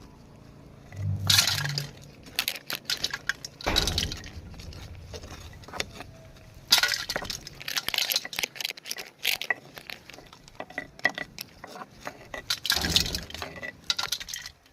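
Irregular clinking and clattering of small hard objects, with a few louder scraping bursts of about half a second each.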